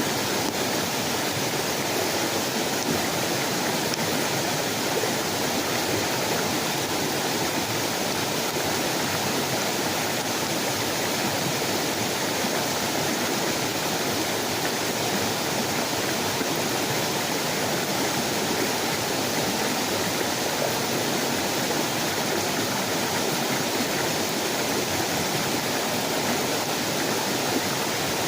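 Heavy rain falling, a steady, even hiss with no break.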